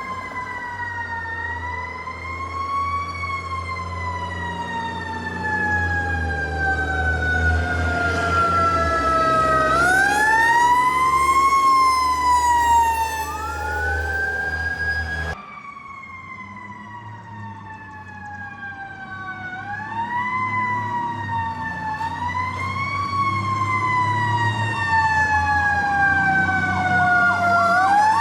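Fire truck sirens passing: each cycle rises quickly, then winds down slowly, over and over, with the fire tanker's engine rumbling underneath. About halfway through the sound changes abruptly and a second fire truck's siren carries on the same rise-and-fall pattern.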